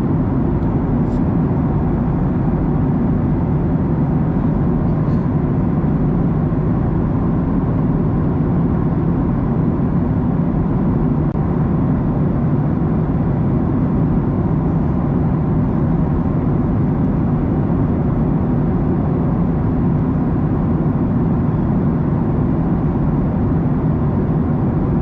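Steady drone inside the cabin of a Boeing 737-900ER in cruise: its CFM56-7B engines and the airflow past the fuselage make an even, unchanging rumble.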